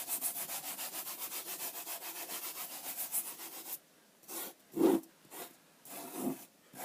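Sand being rubbed and swept by hand on the glass of a sand-animation table, in fast even strokes, about seven a second. The rubbing stops nearly four seconds in, and a few separate strokes follow, the loudest about five seconds in.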